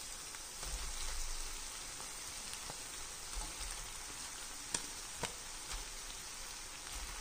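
Onion, capsicum and paneer sizzling in sauce in a pan: a steady soft hiss, with a couple of sharp pops about five seconds in.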